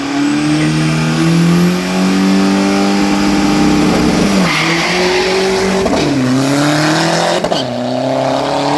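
Diesel pickup truck engine accelerating hard down a drag strip, its pitch climbing through each gear and dropping at three upshifts, about four and a half, six and seven and a half seconds in.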